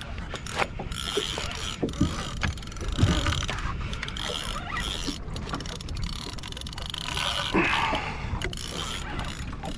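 Fishing reel being cranked, its gears whirring with a rapid ratcheting click, as the angler winds against a hooked shark.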